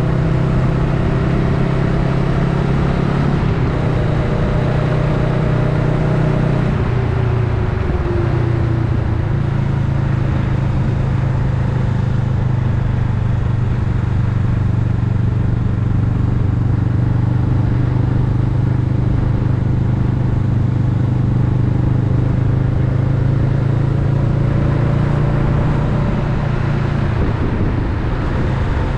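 Honda Rebel 500's parallel-twin engine running steadily on the road, its pitch falling about a quarter of the way in as the bike slows, then rising again near the end as it speeds up.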